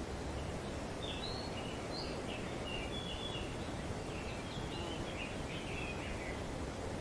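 Rainbow lorikeets chattering in a quick run of short, high chirps that stops about six seconds in, over a steady rush of wind through tree leaves.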